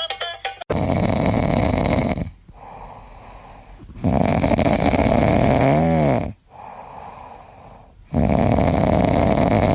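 An animal snoring loudly: three long snores, each about two seconds, with quieter breaths between them.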